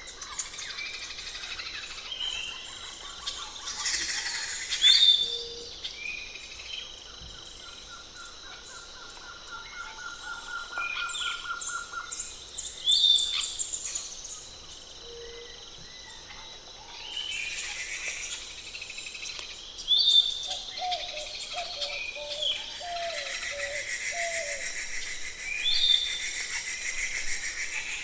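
Several wild birds calling and singing, one over another. Among them is a rapid even trill of repeated notes lasting about four seconds, and a quick high series of notes that falls in pitch. Near the end there is a steady, dense, high buzzing.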